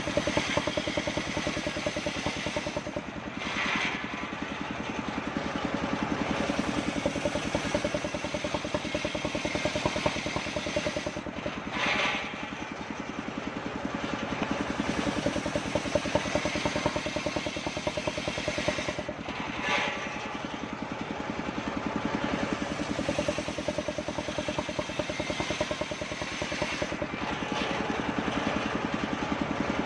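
Circular saw blade machine running steadily while cutting kapok wood. Its tone changes briefly four times, about every eight seconds.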